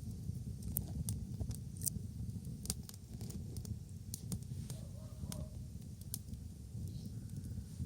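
Wood bonfire crackling, with irregular sharp pops and snaps over a low steady rumble.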